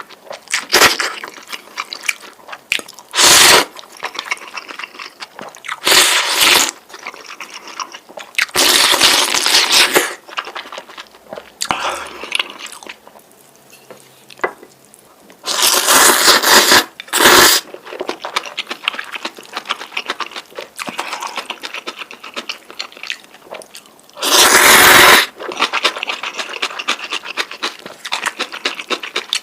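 Eating noodles close to the microphone: about eight loud slurps, each lasting roughly half a second to a second and a half, with wet chewing sounds between them.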